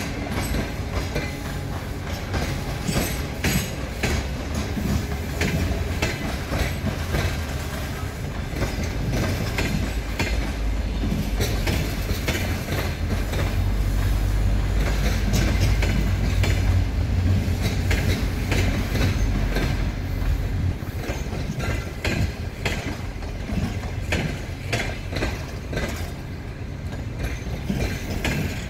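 Passenger train coaches rolling past, their wheels clicking and knocking over rail joints above a heavy low rumble. The rumble is loudest midway through and eases off near the end as the last coach goes by.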